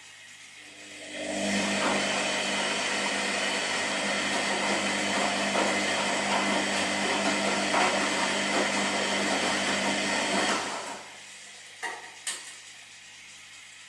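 Washing machine running: its drum motor starts about a second in with a steady whir and noise, runs for about nine seconds, then stops abruptly. Two short clicks follow.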